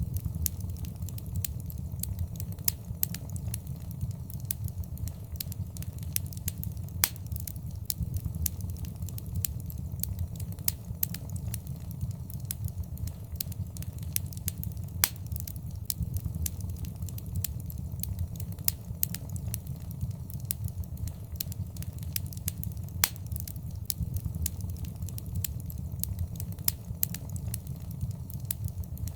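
Wood fire in a fireplace crackling, with frequent irregular sharp pops over a steady low rumble of flame.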